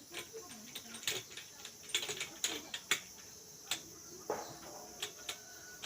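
Irregular sharp metallic clicks and taps from the gearbox of a Bajaj Pulsar 220 engine as it is worked by hand to test which gears engage.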